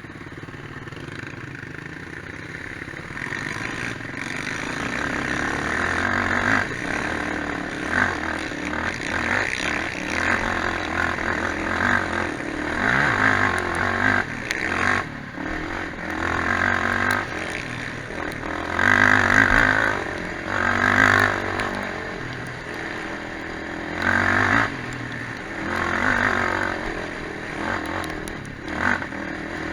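Quad bike (ATV) engine running off-road, revving up and easing off over and over. The sound builds over the first few seconds, then comes in repeated louder surges every couple of seconds.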